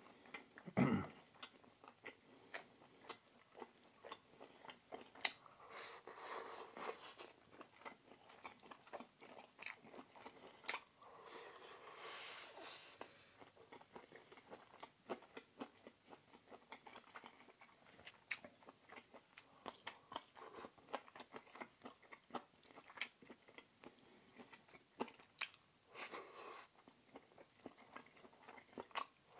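Close-miked eating sounds of a person chewing and biting food, with many small mouth clicks and a few louder crunchy moments.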